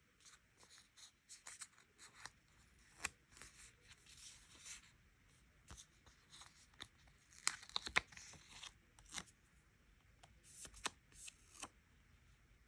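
Stickers being peeled off their backing sheet and paper handled close up: a scattered run of crisp tearing and crackling sounds, loudest in a cluster a little past the middle.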